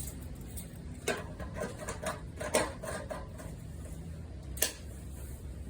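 A quick run of small clicks and taps from about a second to three seconds in, then one sharper click near the end, over a steady low hum: small parts being handled and pressed into place.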